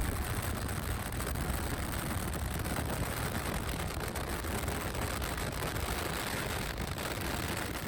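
Steady rushing noise of strong storm wind through an open car window while the car is driving.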